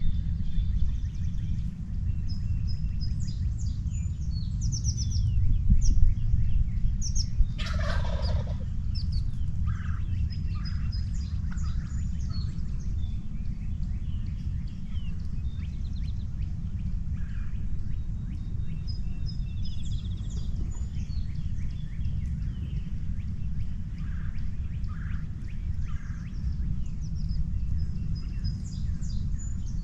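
A wild turkey gobbles once, loudly, about eight seconds in, among many small songbird chirps, over a steady low rumble.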